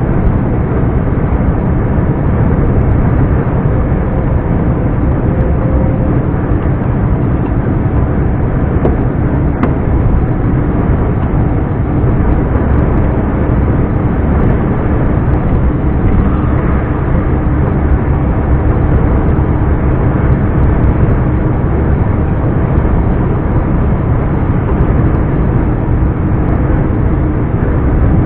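Scania R420 truck's straight-six diesel engine running steadily under way, with a loud, even, deep drone and no clear rise or fall in revs.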